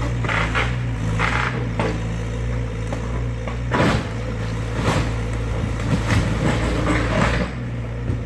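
Excavator's diesel engine running steadily, with several sharp cracks and crunches as the garage structure is torn apart.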